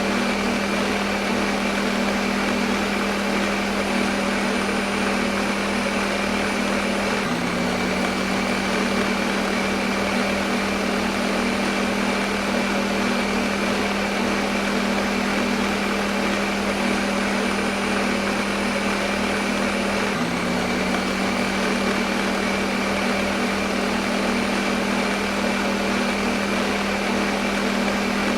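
Electric kitchen blender motor running continuously at one speed: a steady low hum with a faint whine over an even whirring hiss, with slight hitches in the hum about 7 and 20 seconds in.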